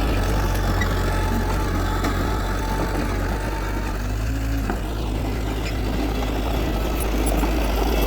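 Heavy earthmoving machine's diesel engine running steadily at a low, even pitch.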